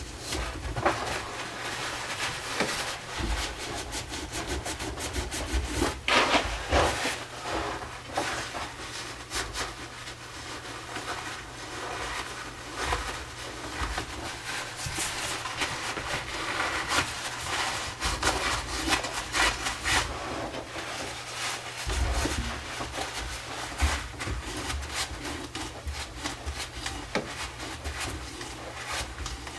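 Irregular scraping and rubbing strokes on the wood of a chair, from glue being cleaned off its joints.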